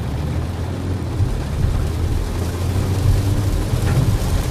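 Inside a car in heavy rain: a steady low rumble of the car under an even hiss of rain on the vehicle.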